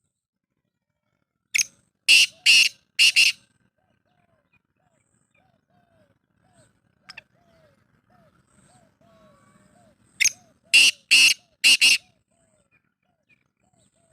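Black francolin calling: two bursts of loud, harsh, grating notes, four in the first and five in the second, about eight seconds apart. Fainter soft notes repeat steadily in between.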